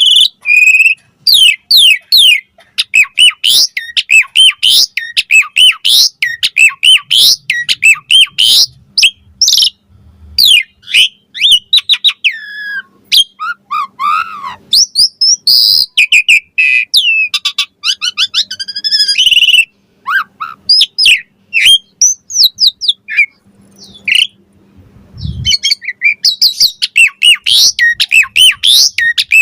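Asian pied starling (jalak suren) singing a long, fast, varied song of whistled glides, chirps and harsh squawking notes, with a few short pauses.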